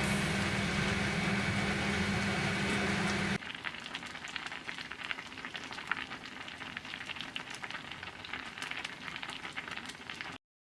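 Cod kimchi hotpot cooking in a pot: a fine, irregular crackle of sizzling and bubbling. A louder steady sound comes before it and cuts off abruptly about three seconds in.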